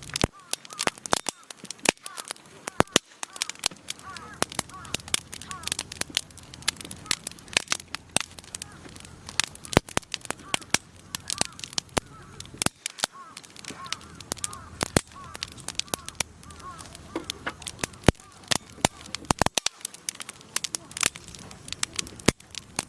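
Wood fire crackling, with many irregular sharp pops and snaps.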